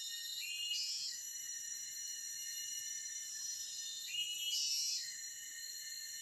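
Forest insect chorus: a steady, many-toned high trilling of crickets or cicadas. A louder call of under a second rises above it twice, about a second in and again about four seconds in.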